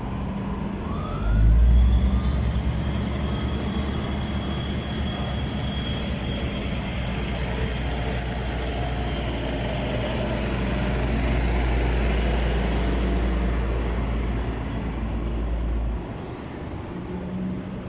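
Diesel railcar train pulling out, its engines throttling up into a heavy low rumble that starts suddenly just over a second in and drops away near the end, with faint high steady squealing tones above it.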